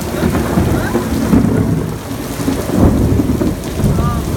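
Close thunder rumbling over falling rain, swelling about one and a half seconds in and again near three seconds.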